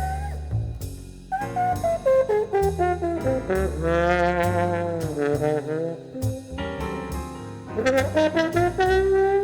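Small jazz group playing: a horn carries a melody that slides between notes, over low bass notes and drums with steady cymbal ticks.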